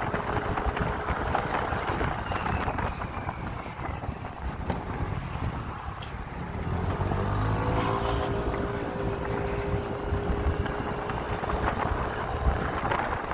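Motorcycle engine running on the road, with wind buffeting the microphone. The engine eases off about five seconds in and pulls again about two seconds later.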